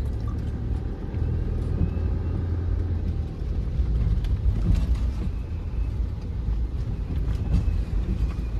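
Steady low rumble of a vehicle driving along the road, heard from on board.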